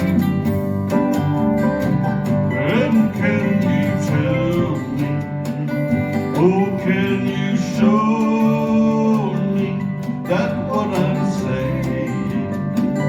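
Acoustic folk band playing live: strummed acoustic guitars over bass, with a melody line rising and falling on top in several phrases.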